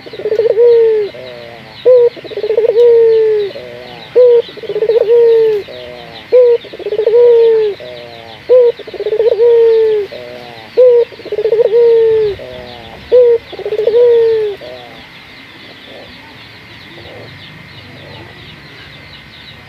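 A Barbary dove (burung puter) cooing loudly about seven times, roughly every two seconds. Each coo is a short clipped note followed by a longer note that falls in pitch. The calling stops about three-quarters of the way through.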